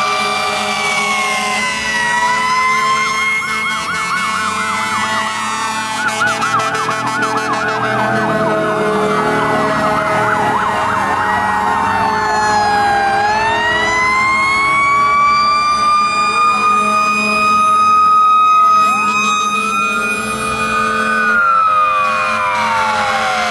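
Several fire truck sirens sounding at once: long wails rising and falling in pitch overlap a fast warbling yelp during the first half.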